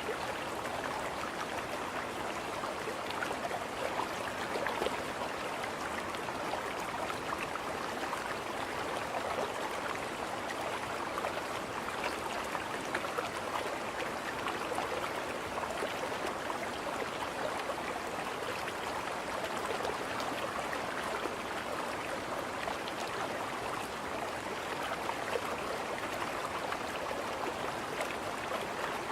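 Running water making a steady, even splashing rush, with no pauses or changes.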